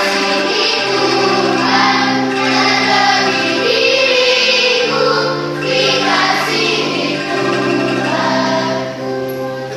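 Children's choir singing a song, accompanied by an angklung ensemble of shaken bamboo tubes holding chords under the voices.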